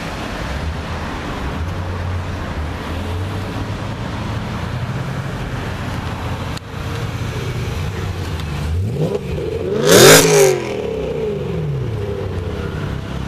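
BMW M3 Convertible's V8 running low in traffic, then revved hard as the car accelerates past; the exhaust is loudest briefly about ten seconds in, and its pitch falls as it pulls away.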